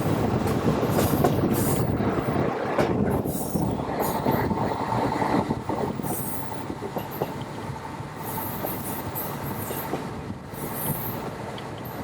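Diesel train running along the track: a steady rumble with irregular high-pitched wheel squeal.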